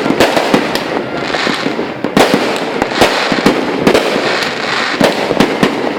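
A continuous barrage of fireworks going off: many sharp bangs at irregular intervals, several a second, over a steady crackle.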